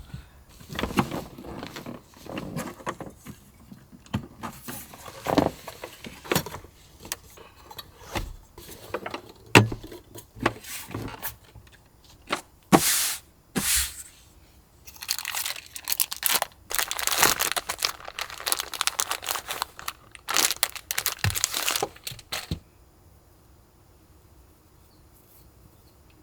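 Irregular rustling, crinkling and light knocks of things being handled at close range, stopping about 22 seconds in.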